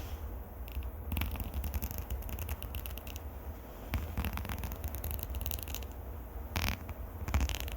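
Close-up scratching and rubbing on the microphone as an ASMR trigger: a steady run of fine crackles and scratches over a low handling rumble, with a few louder scratches near the end.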